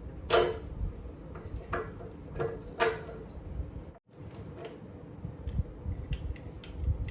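Handling noise from working on an electric scooter: a string of knocks and clanks of tools and parts, a few with a short ring, in the first three seconds, then lighter clicks near the end. The sound drops out abruptly for a moment about four seconds in.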